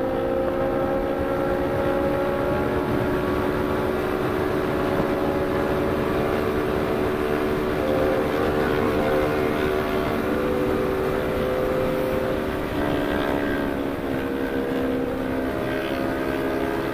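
CFMoto 400NK's parallel-twin engine running hard at high, steady revs at expressway speed, with wind rushing on the microphone. The engine note shifts down briefly about two-thirds of the way through.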